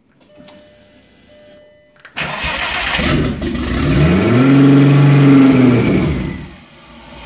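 Turbocharged VW VR6 engine cranking on the starter for about four seconds without catching, the pitch rising and then dropping away as it stops. The engine still won't start.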